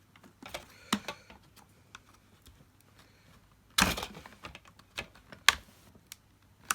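Light clicks and knocks of the plastic parts of a Dyson DC50 vacuum cleaner being handled as its mesh is eased off. A louder clatter comes about four seconds in, and a single sharp click at about five and a half seconds.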